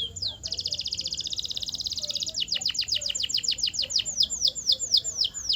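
Canary singing: a rapid, buzzy trill for about two seconds, then a run of quick down-slurred whistled notes, about five a second at first and slowing toward the end.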